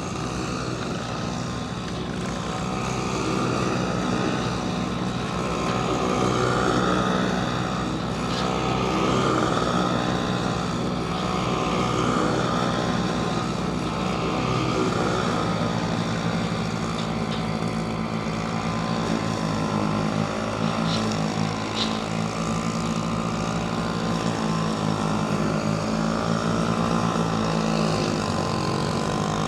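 Small engine of a wheel-less lawnmower running steadily, with an even, unbroken note.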